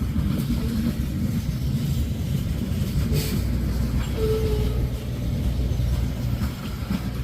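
Freight train rolling past: a steady low rumble of wheels on rail, with a short faint squeal about four seconds in.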